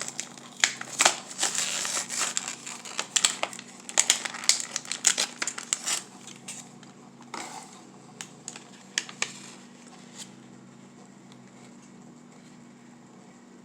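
Plastic blister packaging and cardboard crinkling and clicking as a diecast car two-pack is handled, busiest in the first six seconds, then a few scattered clicks that die away.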